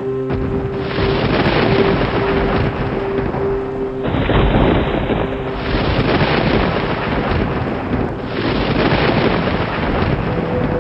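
Rolling thunder in a rainstorm, rumbling in several long swells over a steady wash of rain.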